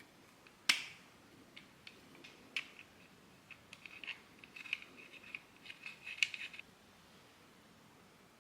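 3D-printed plastic parts being handled and fitted together: one sharp snap about a second in, then a run of small clicks and scrapes that stops near the end.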